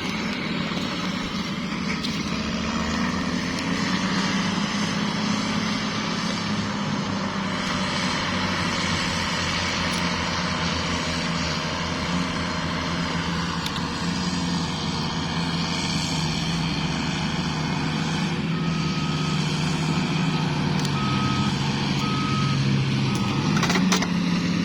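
A heavy vehicle's engine running steadily, with a reversing alarm beeping about five times, once a second, near the end. The engine's pitch sags slightly while the alarm sounds, then picks up again.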